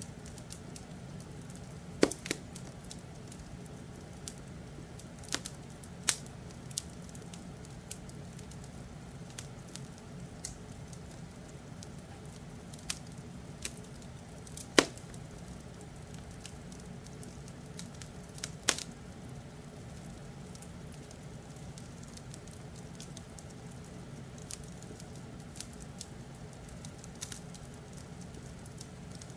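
Wood fire crackling: a steady low rumble with irregular sharp pops and snaps, the loudest about two seconds in and halfway through.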